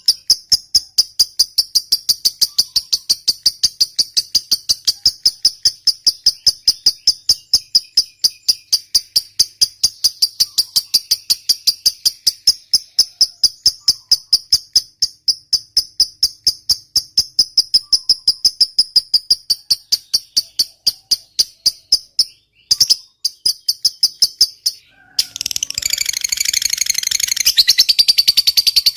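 Lovebird chattering in a long 'ngekek' run: rapid, evenly repeated sharp high chirps. About 22 seconds in it breaks off briefly, then resumes as denser, louder chattering.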